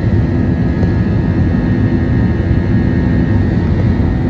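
Airbus A321-231 jet engines and airflow heard inside the passenger cabin: a steady, loud low rumble with a faint high steady whine above it.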